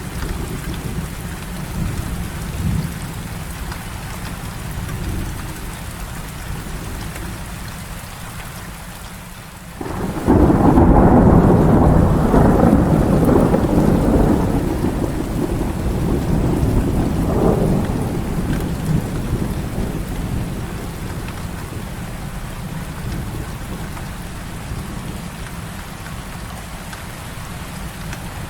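Heavy rain falling steadily. About ten seconds in, thunder breaks suddenly and loudly, then rumbles on, swells once more and fades away over the next ten seconds.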